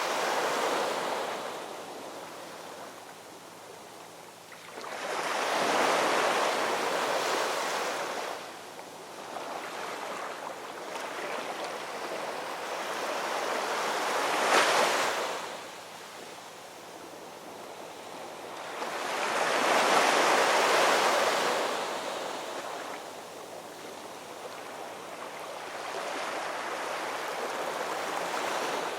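Ocean waves breaking and washing up on a shore, swelling and falling back about five times, with a sharp crash about halfway through.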